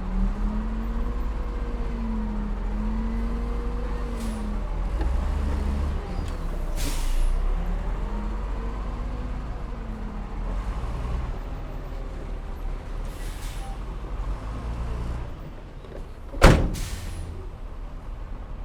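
Heavy diesel earthmoving machinery engine running at a work site, its engine pitch rising and falling under load. There are a few short hissing or scraping bursts, and a sharp loud clank about sixteen seconds in.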